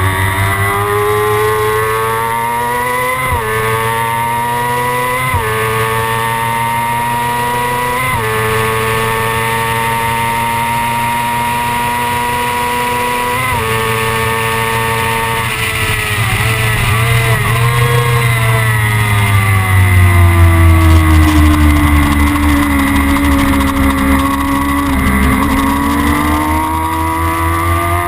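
Kawasaki ZX-6R's inline-four engine accelerating hard through the gears, its pitch climbing and then dropping sharply at each of about four upshifts. In the second half the pitch wavers and falls as the bike slows, then rises again near the end.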